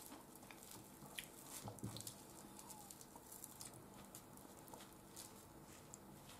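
Near silence with faint chewing and small mouth clicks from someone eating raisin-bread toast, with a slightly louder moment of chewing about two seconds in.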